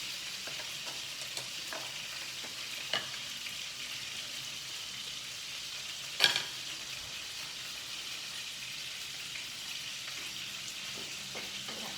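Chicken frying in a pan with a steady sizzle, broken by a few sharp knocks, the loudest about six seconds in.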